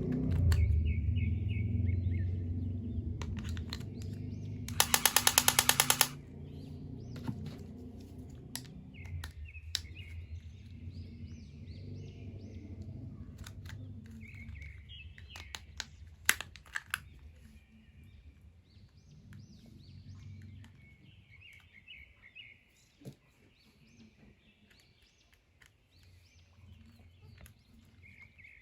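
Small birds chirping on and off over a low rumble that fades away. About five seconds in comes a loud, rapid rattle of about ten clicks a second, lasting about a second.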